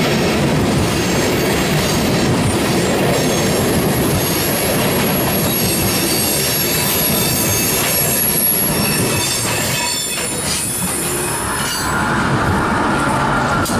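Loaded oil train tank cars rolling past on steel rails, with a steady rumble and high-pitched wheel squeal, and a few clanks about ten seconds in.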